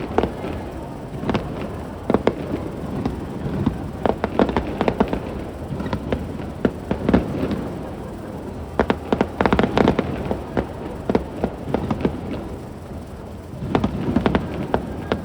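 Aerial fireworks bursting in repeated volleys of sharp bangs and crackles, the densest cluster about nine to ten seconds in.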